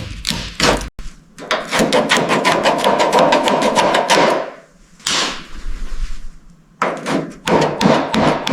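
Hammer striking metal in rapid strokes, about eight a second, with a ringing tone under the blows. The hammering pauses for a short hiss near the middle, then resumes in shorter runs near the end.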